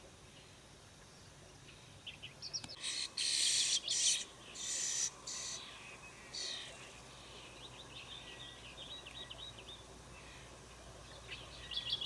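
Starling chick begging for food: a run of loud harsh, hissing calls in the middle, with thin high chirps before and after them and a final burst of chirps near the end.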